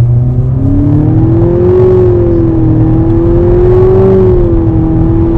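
Nissan Altima's 2.0 VC-Turbo four-cylinder at full throttle, accelerating hard from a standstill. The engine note rises over the first couple of seconds, then holds at a nearly steady pitch as the CVT keeps the revs constant while the car gains speed.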